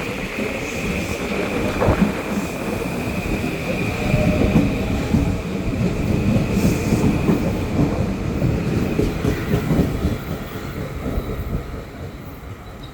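Train running on rails with a steady high-pitched wheel squeal over a rumble and irregular clacking of wheels on track joints. Squeal and rumble die away about ten seconds in.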